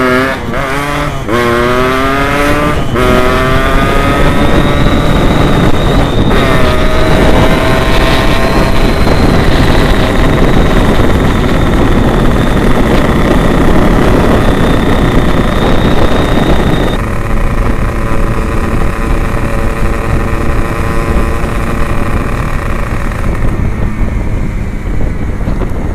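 Yamaha RX-King 135cc two-stroke single running through an Abbox C20 aftermarket exhaust, accelerating hard through several gear changes in the first few seconds. It then holds high revs and eases off to a lower, steadier note about two-thirds of the way through.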